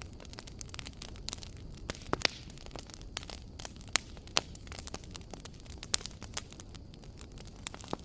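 Wood fire in a fireplace crackling: irregular sharp pops and snaps over a low steady hiss of the flames, with a few louder pops.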